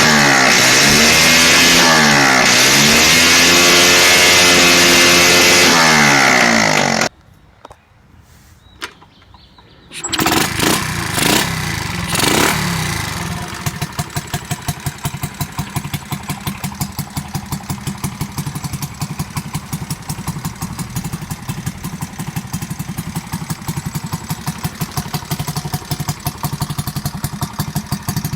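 Honda Chaly CF50 minibike's single-cylinder four-stroke engine revving up and down repeatedly. About seven seconds in it cuts out. Around ten seconds it starts again, is blipped a few times and settles into a steady idle.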